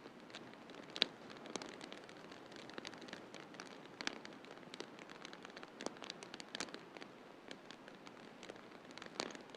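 Wood fire in a fireplace crackling, with irregular sharp pops and snaps, a few of them much louder, over a steady hiss.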